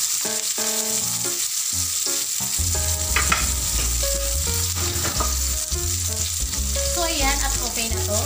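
Tanigue (Spanish mackerel) steaks frying in a grill pan with a steady sizzle.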